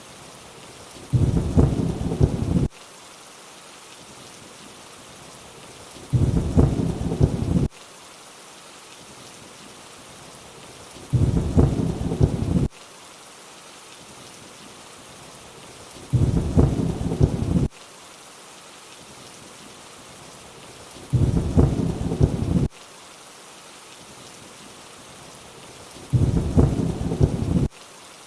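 Steady rainfall hiss with a short, low rumble of thunder six times, about every five seconds. Each rumble lasts about a second and a half and cuts off abruptly, repeating at exactly even intervals.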